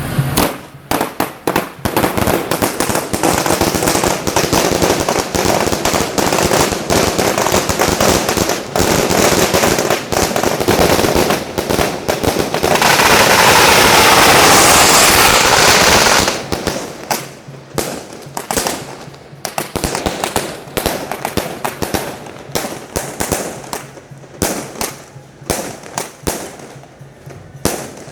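A long string of firecrackers going off in rapid crackling bangs, densest and loudest from about 12 to 16 seconds in, then thinning to scattered separate pops.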